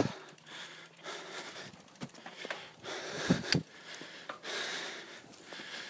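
A mountain biker breathing hard and sniffing, in several separate breaths, with a few short knocks around the middle.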